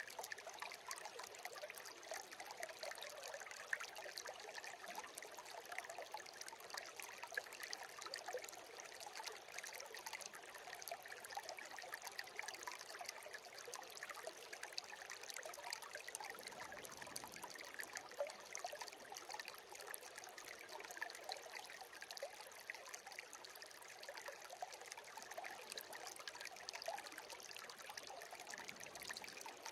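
Shallow stream babbling and trickling steadily, with many small splashes and gurgles.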